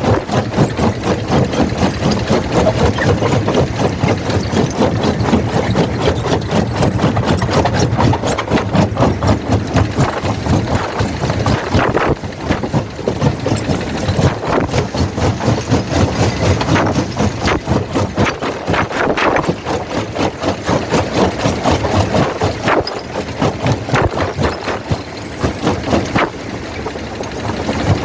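Primary jaw crusher running in a quarry plant: a steady heavy machinery drone under a dense, continuous clatter of rock knocking and cracking as stone is crushed.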